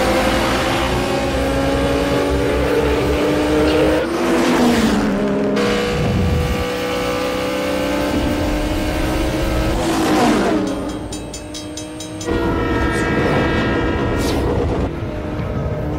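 Two race cars' engines revving hard under acceleration, a black muscle car and a Toyota Supra, their pitch climbing and breaking off at gear changes. About twelve seconds in, a diesel locomotive's multi-tone horn sounds steadily for a few seconds over them.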